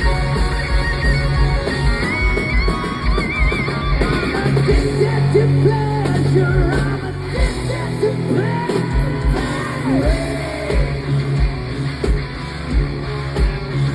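Hard rock band playing live: distorted electric guitars over bass and a steady, driving drum beat, with bending guitar or vocal lines.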